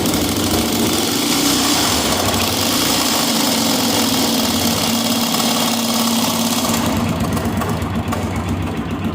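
Honda XL 250 air-cooled single-cylinder four-stroke engine running with a very loud mechanical clatter that seems to come from the valve-cover area. On teardown the mechanic traced it to a damaged connecting rod, with the piston striking the valves.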